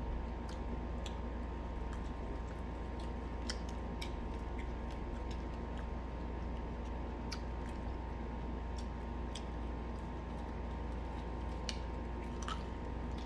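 Close-up chewing and biting of fried chicken, with scattered short sharp mouth clicks and crunches over a steady low hum.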